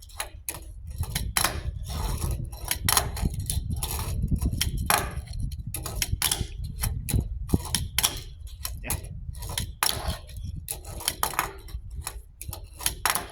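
Tech Deck fingerboard tricks on a hard surface: a rapid, irregular run of small plastic clicks and taps as the board is flicked, lands and rolls, over a low rumble.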